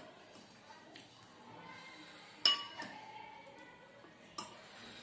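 Tableware clinking during a meal: a few sharp clinks with a brief ring. The loudest comes about two and a half seconds in, and another comes near the end.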